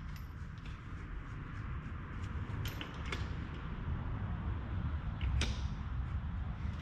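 A few sharp metal clicks as a steel motor mount and its bolts are handled against an engine block, the loudest about five seconds in, over a low rumble of handling noise.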